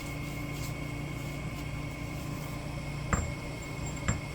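Two short, sharp metal clicks about a second apart near the end, as parts of a skid steer's hydraulic drive motor are set in place during reassembly, over a steady background hum.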